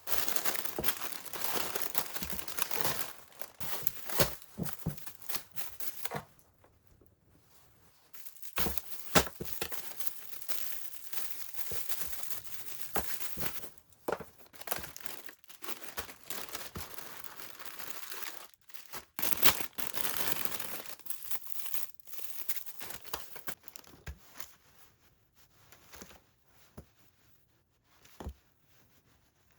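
Crinkly wrapping or bags being handled, crinkling and rustling in stretches with short pauses between, growing sparser and fainter near the end.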